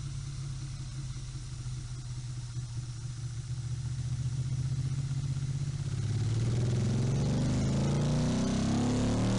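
Motorcycle engine running steadily, then getting louder with its pitch climbing from about six seconds in, as if revved.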